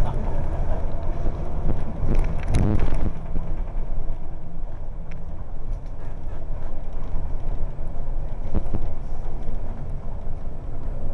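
Scania L94UB single-decker bus with a ZF four-speed gearbox, running on the move: a steady low engine and road drone, with a short louder clatter about two to three seconds in.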